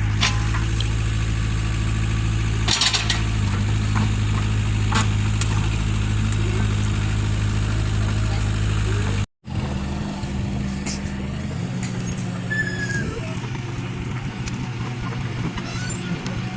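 Engine running steadily, with a few sharp clicks over it. About nine seconds in the sound breaks off for a moment and comes back as a rougher engine sound.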